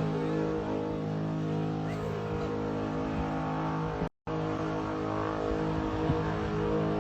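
Dodge Scat Pack's 6.4-litre HEMI V8 held at steady revs. The sound cuts out briefly about four seconds in.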